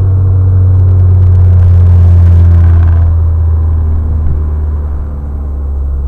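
A 2008 Chevrolet Cobalt's four-cylinder engine and road noise, a low drone while driving. It builds to a peak about two seconds in and then eases off.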